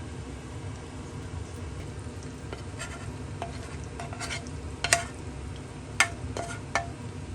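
A utensil stirring food in a frying pan, knocking and clinking against the pan a few times, the loudest knocks about five and six seconds in, over a steady sizzle.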